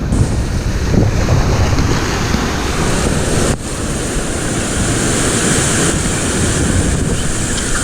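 Surf washing against shoreline rocks, with wind buffeting the microphone; the hiss of the breaking water grows stronger a few seconds in.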